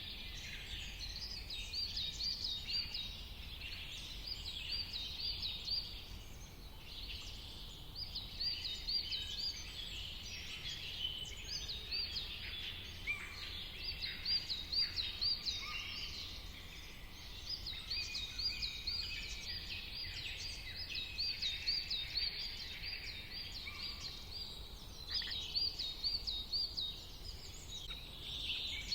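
A chorus of many birds calling at once: dense, overlapping high chirps and quick repeated trills, over a faint low rumble.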